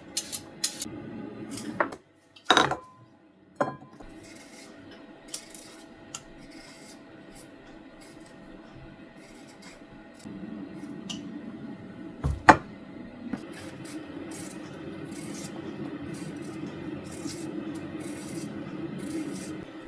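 Household handling sounds: a few sharp knocks, loudest about twelve seconds in, and a steady rubbing or scraping sound through the second half.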